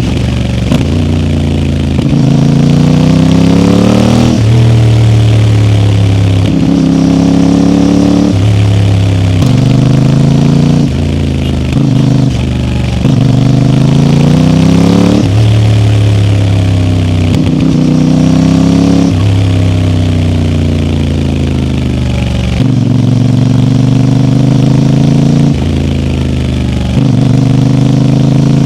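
CFMoto 450MT's parallel-twin engine under way, its note climbing as the bike accelerates and dropping suddenly at each gear change, over and over, with stretches where the pitch falls off as it slows.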